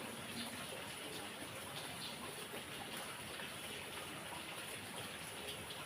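Heavy rain falling steadily: an even hiss of dense drops, with scattered nearer drips standing out now and then.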